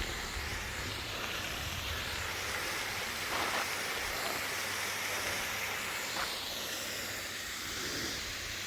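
Steady rushing noise of a bicycle being ridden along a trail, with wind buffeting the microphone in a low, uneven rumble.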